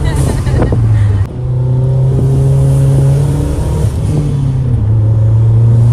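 Car engine running loudly under hard driving. Its pitch steps up about a second in and settles lower again later on.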